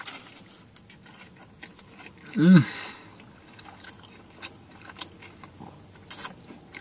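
A person chewing a mouthful of soft quesadilla taco, with small wet clicks and smacks of the mouth. About two and a half seconds in comes a short hummed "mm" that rises and then falls in pitch, the loudest sound here.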